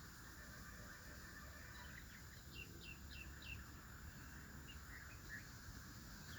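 Faint bird chirps over a low background hiss: a quick run of four short falling chirps, about three a second, a little over two seconds in, then a few scattered single calls near the end.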